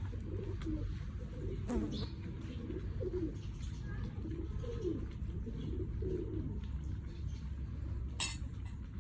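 Pigeons cooing repeatedly over a steady low rumble, with two sharp clicks, one about two seconds in and one near the end.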